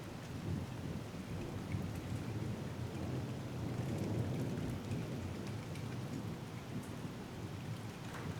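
Rolling thunder rumbling low and long over steady rain during a thunderstorm. The rumble swells about halfway through, and scattered drops tick nearby.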